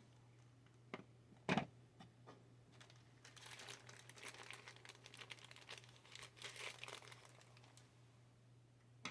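Faint crinkling of packaging being handled for about five seconds, after a couple of short knocks, with a click near the end.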